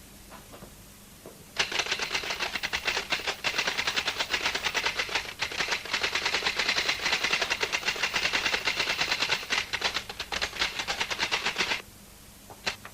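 Fast typing on a mechanical typewriter: a steady run of rapid key strikes for about ten seconds that stops abruptly, then two more separate clacks near the end.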